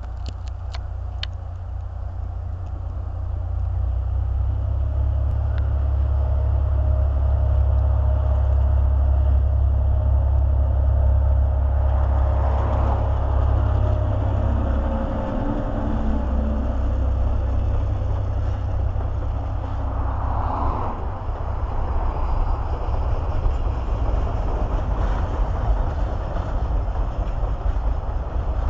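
A DC-class diesel-electric locomotive approaches and passes with a deep engine rumble that builds over the first several seconds and falls away about fifteen seconds in. The steady rolling rumble and rattle of a long freight train of container wagons follows.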